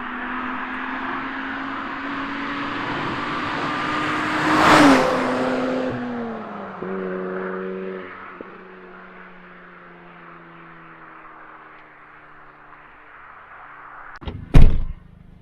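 Mazda RX-8's twin-rotor rotary engine as the car drives past: the note climbs slowly, peaks with a rush of air about five seconds in, then drops in pitch and fades away. A single loud, sharp thump near the end.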